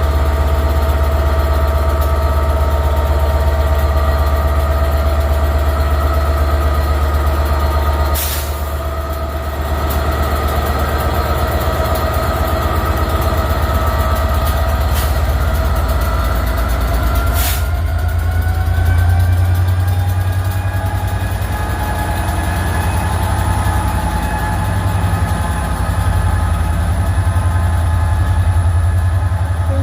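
Class 67 diesel locomotive's EMD two-stroke V12 engine running with a loud, steady drone, its pitch rising a little past halfway as it powers up. Three short sharp sounds cut across it, roughly a third, half and just past halfway through.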